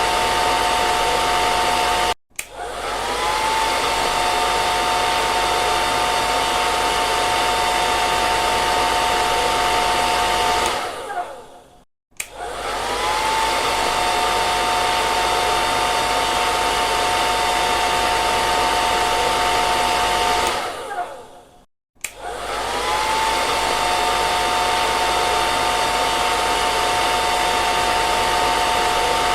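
Hair dryer running with a steady whine over rushing air. About every ten seconds it runs down or cuts out briefly, then starts again with a rising whine that settles back to the steady note.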